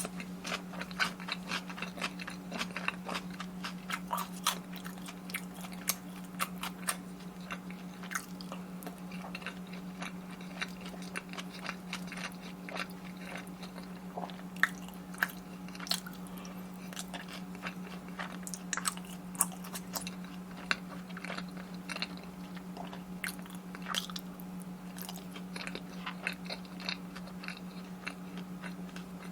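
Close-miked chewing and biting, with many short crisp crunches throughout, over a steady low hum.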